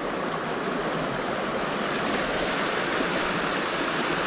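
Rushing water of a canyon creek swollen with rain runoff, a steady even rush.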